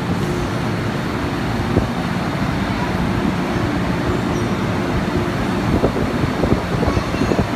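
Steady hum and rumble of a stopped Metro Cammell electric multiple unit train standing at an underground platform with its doors open. A steady tone in the hum stops about five seconds in, and uneven knocks and rustling build near the end.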